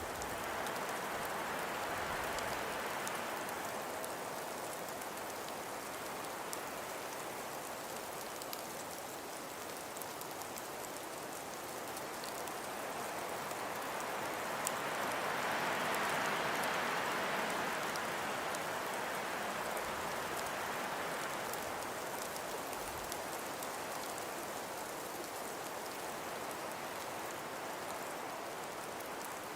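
Steady winter wind and blowing snow making a soft, even hiss sprinkled with fine ticks. It swells twice in gusts, a couple of seconds in and again about halfway through.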